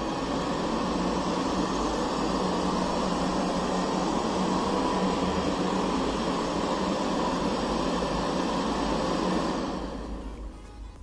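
Puppyoo R6 robot vacuum's suction fan running with a steady, even hiss, dying away near the end.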